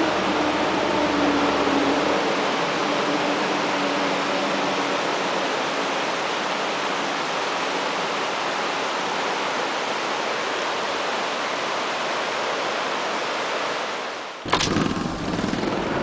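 Steady rushing noise of flowing floodwater. It breaks off with a sharp click near the end, where a different, gustier noise begins.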